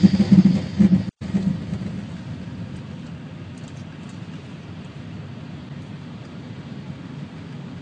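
Windstorm with rain: a steady rushing noise that takes over after a sudden cut about a second in.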